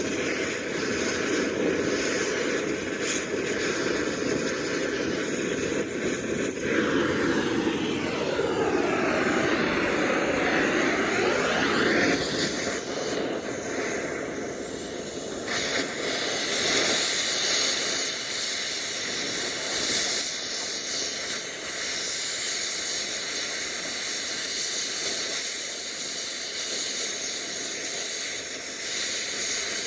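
Cutting torch hissing steadily while cutting a part off the shaft, with no talk over it. Its hiss changes character about halfway through and turns much sharper and brighter from then on.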